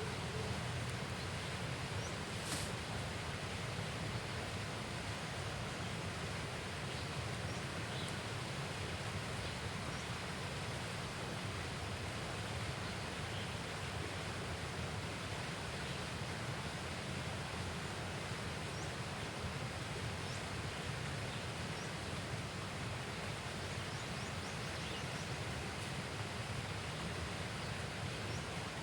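Steady outdoor ambience: an even, constant rushing hiss with no changes, and one sharp click about two and a half seconds in.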